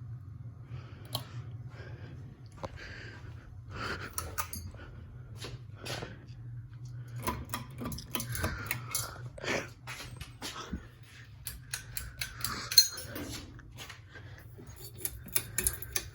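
Ceiling fans running with a steady low hum, overlaid by scattered clicks and knocks.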